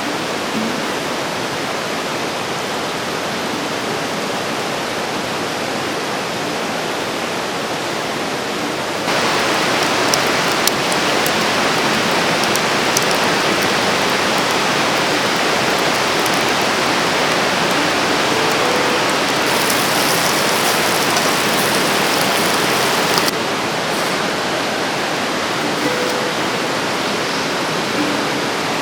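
Mountain river rushing over rocks, a steady roar of water. It gets louder about a third of the way in and drops back near the end.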